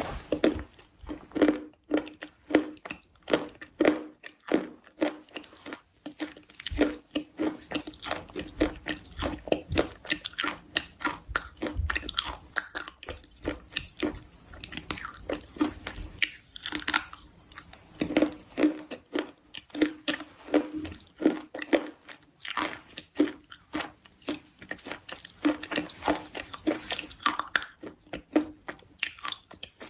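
A person chewing and biting crunchy food close to the microphone, with rapid, irregular crunches throughout.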